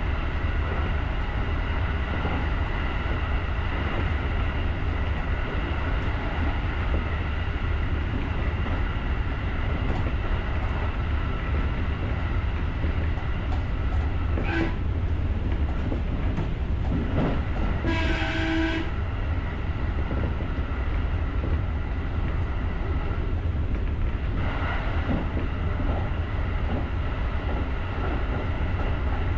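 JR rapid electric train running along the line, heard from the driver's cab as a steady rumble of wheels on rail with a faint electric hum. A brief tone sounds about halfway through, and a short horn blast follows a few seconds later.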